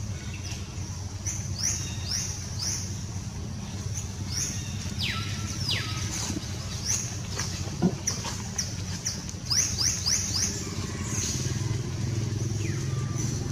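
Birds chirping over and over in short, high, quickly falling notes, with a few longer whistles that slide down in pitch, over a steady low hum.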